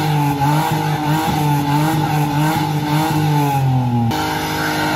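Suzuki hatchback engine held at high revs, its pitch wavering, while a front tyre spins and squeals against the road with the car stuck on a kerb. About four seconds in the sound changes abruptly to a steadier, even engine note.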